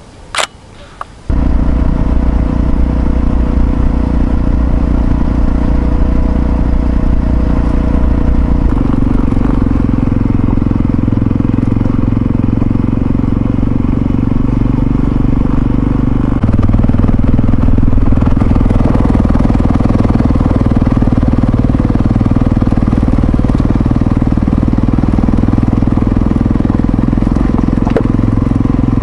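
Yamaha XT660Z Ténéré's single-cylinder engine running steadily under way. It comes in abruptly just over a second in, after a single sharp click, and its note shifts in two steps, about a third and about halfway through.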